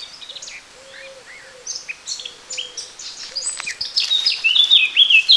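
Songbirds singing in a forest, many short chirps and calls overlapping. The song gets louder and busier in the second half, ending in a fast warbling phrase that is the loudest sound.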